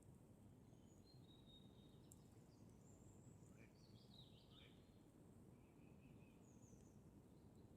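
Near silence in a forest: faint birdsong, several short high chirps and whistles, over a low steady background hiss, with a single faint campfire crackle about two seconds in.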